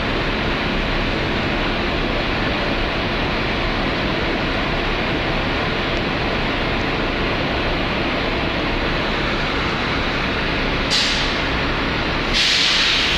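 Volvo B9TL bus's six-cylinder diesel engine idling steadily, with compressed air from its air system hissing: a short hiss near the end, then a louder, longer one just before it ends.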